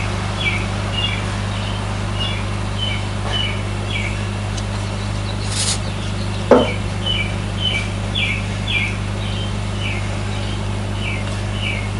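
A small bird chirping over and over, short falling chirps about two a second, over a steady low hum. One sharp knock about six and a half seconds in.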